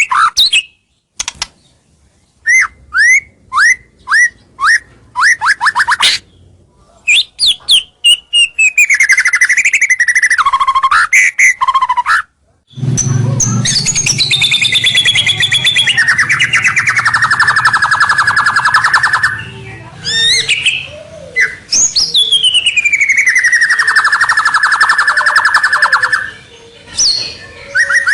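White-rumped shama (murai batu) singing: a string of short rising chirps, then varied whistled phrases, then twice a long phrase that slides down from a high whistle into a fast, buzzy rattle. This is a male's loud territorial song, used as a lure call to draw rival birds in.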